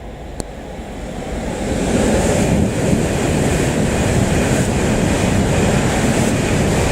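E7/W7 series Shinkansen train running at high speed, its rushing noise growing louder over the first two seconds and then holding loud and steady.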